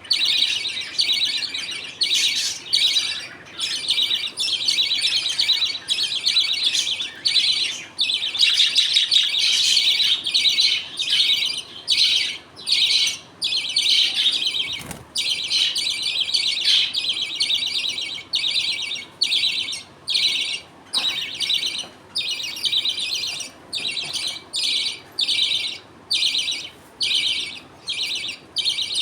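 A colony of budgerigars chattering and chirping continuously, many birds at once in quick short bursts.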